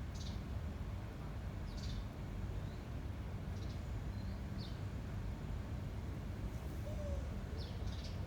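Wind rumbling steadily on the microphone, with short high bird chirps about once a second.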